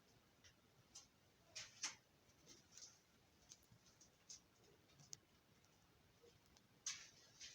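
Faint, short scraping strokes and light clicks in a small room, two scrapes standing out about two seconds in and near the end.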